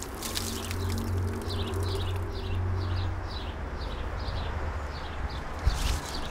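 A bird calling in a quick series of short, falling chirps, about two a second, over a low steady hum, with a single knock near the end.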